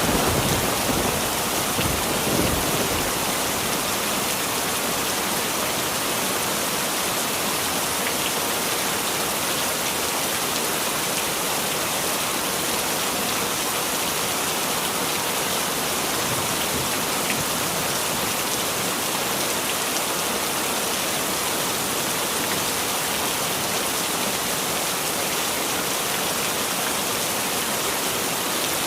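Heavy rain falling steadily, with the last of a thunder rumble dying away in the first few seconds.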